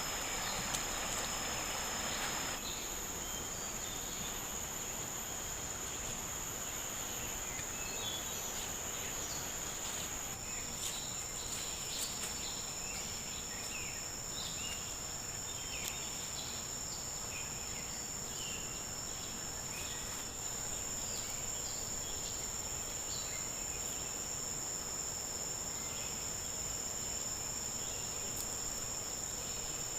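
Forest insects droning steadily at a high pitch, with scattered short chirps over it. A brief rushing noise in the first couple of seconds.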